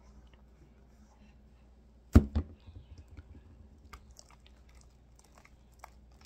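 A sharp thump about two seconds in, followed by faint, scattered sticky clicks and squishes of slime being worked and mixed after glue has been added.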